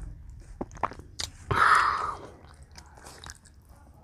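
Close-up sounds of a child eating watery rice by hand: wet chewing with sharp clicks, and one louder noisy sound lasting about half a second about a second and a half in.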